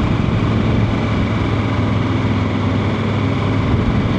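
Vehicle engine running steadily: a continuous low hum under an even rushing noise, with no change in pitch or level.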